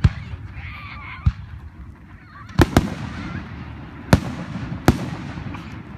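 Aerial fireworks shells bursting: about six sharp bangs, two of them close together near the middle, with a low rumbling echo between them.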